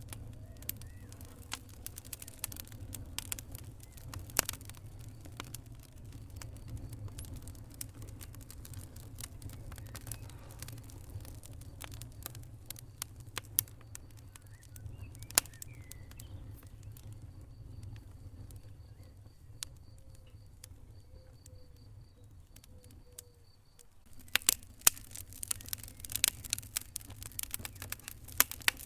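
Wood fire in a fireplace crackling, sharp pops scattered over a low rumble of flames. The pops thin out in the middle and come thick and fast again near the end.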